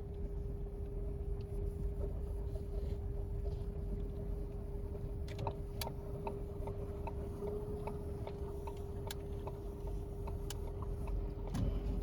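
Ford Escape being driven, heard from inside the cabin: a steady low road rumble with a constant hum, and scattered light ticks.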